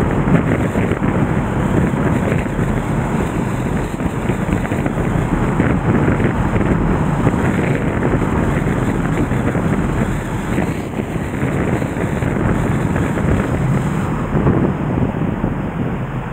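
Steady, loud rushing of the Nagara River in flood, its water swollen by typhoon rain.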